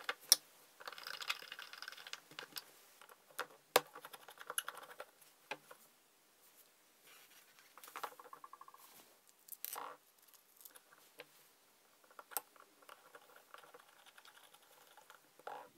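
Small metal parts being handled: brass jets and the Zenith carburettor body clicking and scraping against each other and the wooden bench as the jets are fitted, with a few sharp clicks among quieter scraping.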